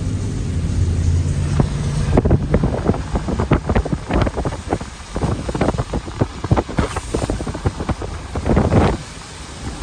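A steady low engine hum for about two seconds, then irregular gusts of wind buffeting the microphone.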